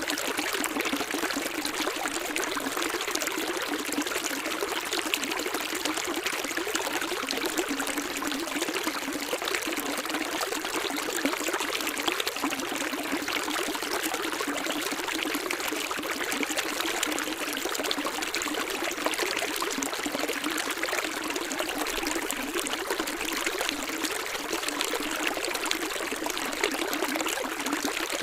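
Running water flowing steadily: an even splashing rush with no deep rumble.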